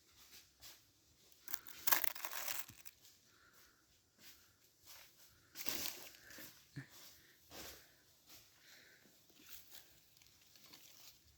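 Intermittent rustling and crackling of cut branches and brush being handled and shifted, in short irregular bursts, the loudest about two seconds in and again near six seconds.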